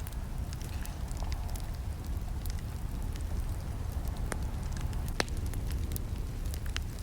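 Campfire burning: wood crackling and snapping in irregular sharp pops over a steady low rumble of flames, with one louder pop about five seconds in.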